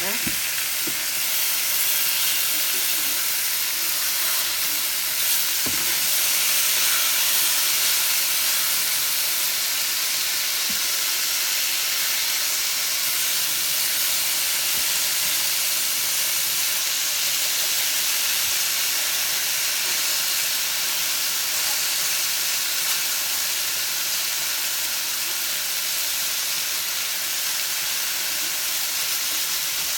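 Marinated chicken pieces sizzling in a hot stainless steel skillet, a steady frying hiss. A spatula presses through the chicken against the pan, with a couple of brief light knocks.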